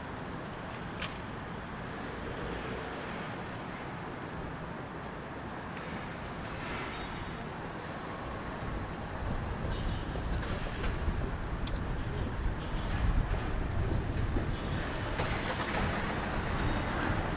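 A train running past, its rumble growing louder from about nine seconds in, with several brief high-pitched squeals.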